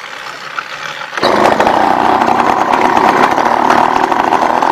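Small two-stroke engine of a motorized bicycle running loudly with a steady buzz. It cuts in suddenly about a second in.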